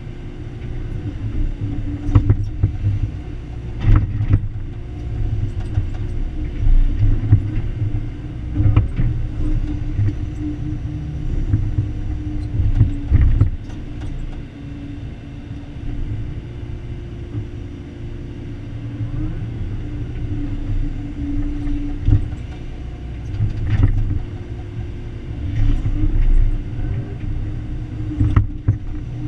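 Excavator's diesel engine running while digging, its level swelling and easing as it works, with scattered sharp knocks and scrapes from the bucket in the soil.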